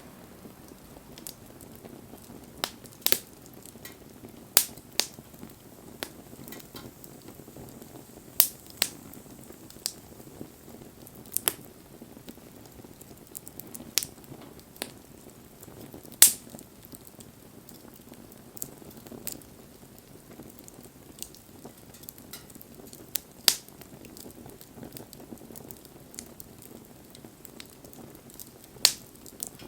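Campfire crackling, with sharp pops every second or two at irregular intervals over a low steady hiss.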